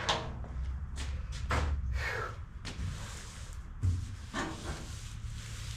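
Scattered light knocks and clatter of parts and tools being handled, with a brief soft hiss about three seconds in.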